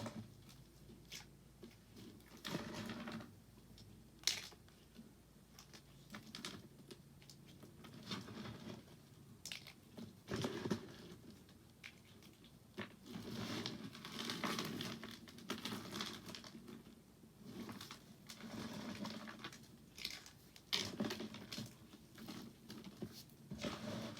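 Soap crunching and crackling in irregular bursts, some lasting a second or two, with a few sharp snaps.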